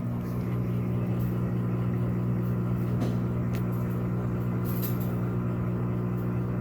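Electrolux Turbo Economia 13 kg (LAC13) top-loading washing machine running with a steady motor hum and a few faint clicks.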